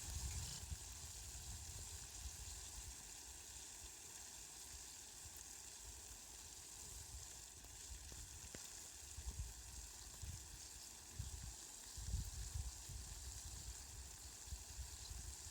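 Steady hiss of falling rain, with brief low rumbles coming and going in the second half.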